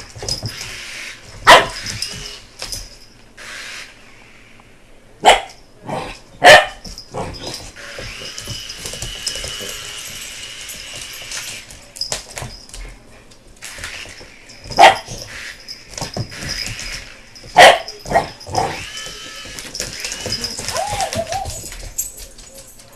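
American Bulldog puppy barking: several loud single barks a few seconds apart, with a steady high whine in the lull between them.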